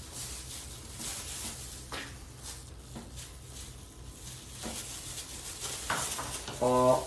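Light handling noises, soft knocks and rustles, as cooking utensils and ingredient packages are picked up and set out. A short hummed voice comes near the end.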